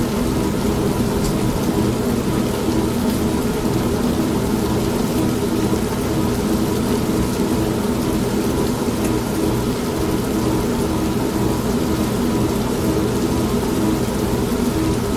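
An old manual washing machine runs with a steady motor hum, layered with constant rain and a low thunder rumble. The sound stays even throughout, with no separate claps.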